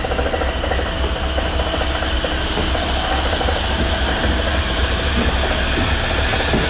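A JR West electric train passing through at speed, its steel wheels running on the rails with a loud, steady rush and rapid rattle.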